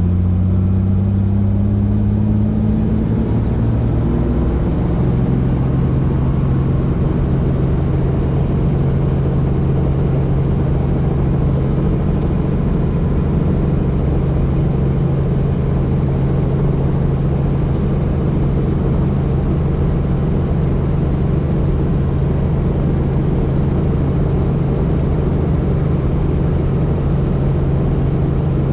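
Helicopter turbine and rotor running: the pitch rises over the first few seconds, then settles into a steady hum with a high whine above it.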